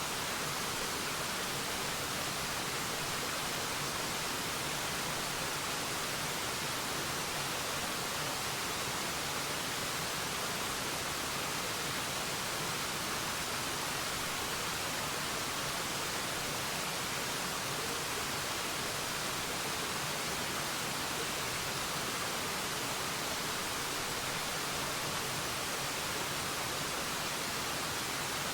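Waterfall: a steady rush of falling water, an even hiss weighted toward the high end, with no changes or separate splashes.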